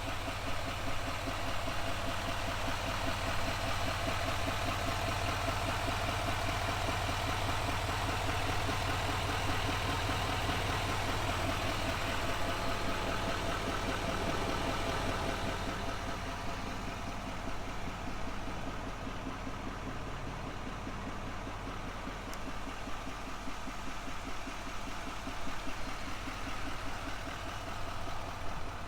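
6.6-litre turbodiesel V8 of a GMC Sierra 2500HD idling steadily, a continuous low rumble. The sound grows duller about halfway through as its higher sounds fade.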